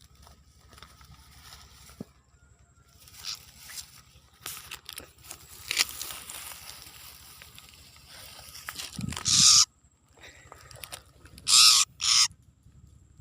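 Scratching and rustling from a bird moving about, then three loud, harsh, hissing calls: one building to a peak about nine seconds in and stopping abruptly, and two short ones close together near the end.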